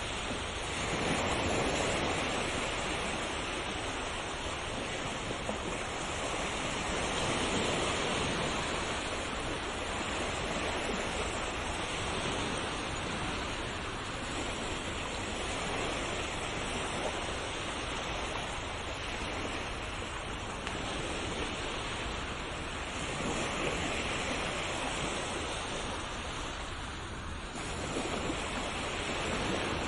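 Ocean surf: waves washing on a shore as a continuous rush of water noise that swells and eases slowly every several seconds.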